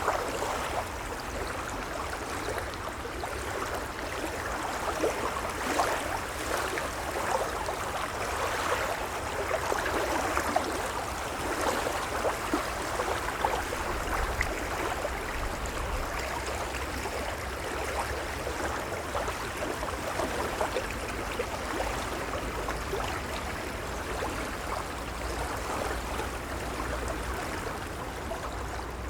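Gentle waves washing and lapping: a steady wash of small splashes and fizzing water over a low rumble, with no single loud break standing out.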